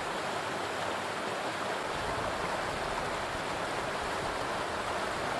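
Steady rushing of river water, an even unbroken noise.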